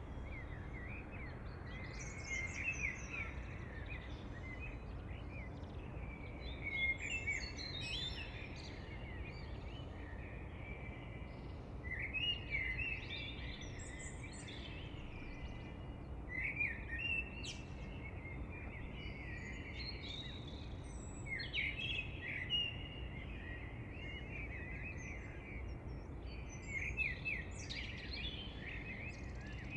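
Wild songbirds singing in short, varied phrases that come every few seconds, over a steady low background hiss.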